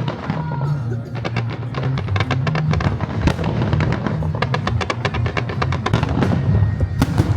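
Fireworks bursting and crackling in rapid succession over loud music, with a heavier bang near the end.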